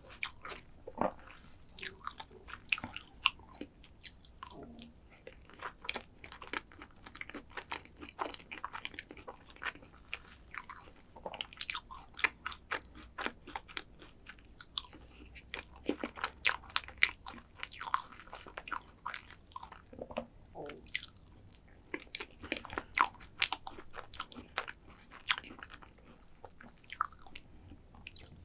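Close-miked eating: a person biting and chewing crunchy chocolate dessert, with many irregular sharp crunches and crackles.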